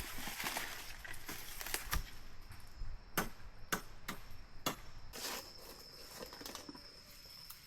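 About five sharp knocks, spaced irregularly through the middle, like a blade chopping wood. Rustling sounds in the first half, and a steady high insect drone.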